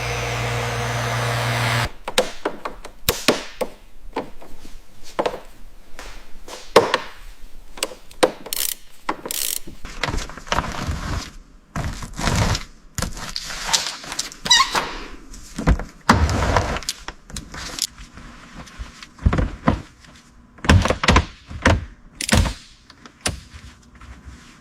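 A steady mechanical drone that cuts off about two seconds in, followed by irregular knocks, thunks and clicks of hand work on the car in a workshop.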